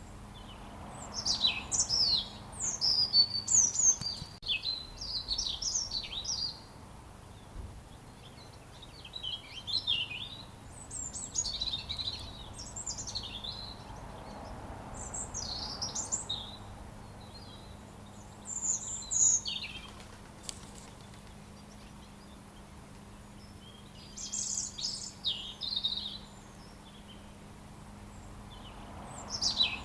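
Robin singing: a series of high, quickly varied twittering phrases, each lasting a second to a few seconds, with pauses of a few seconds between them.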